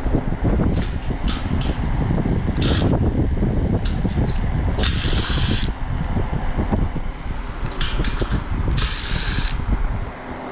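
Hand-tool work on a condenser fan motor: clicks and taps against metal over a steady low rumble, with two short hisses about five and nine seconds in.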